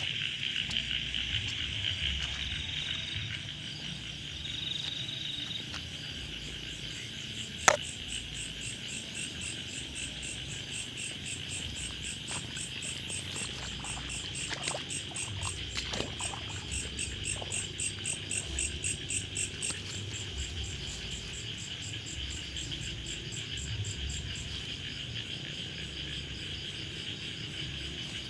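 A chorus of insects and frogs in wet rice paddies: a steady high trilling with a fast, ticking pulse above it. A single sharp click about eight seconds in.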